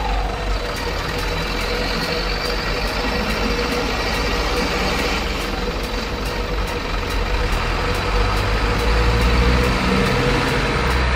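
Truck engine running steadily with a low rumble, a short falling whine at the very start.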